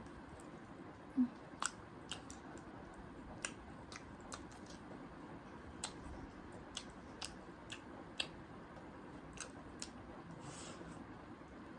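Close-miked chewing of spicy ramen noodles: soft wet mouth clicks at irregular intervals, loudest about a second in, with a short hiss near the end.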